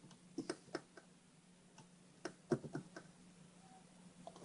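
Faint, irregular clicks and light taps of a soldering iron tip working in the capacitor holes of a TV power board, clearing out the solder, over a faint steady hum.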